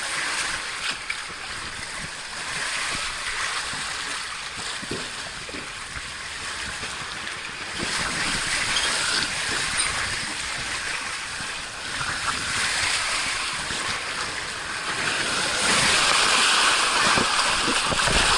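Water rushing and splashing down a wild-river water slide channel, a steady hiss that grows louder in the last few seconds.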